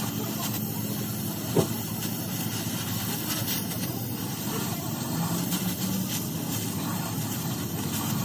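Steady mechanical hiss with a low hum underneath, like a running vehicle or machine, broken by one sharp knock about a second and a half in.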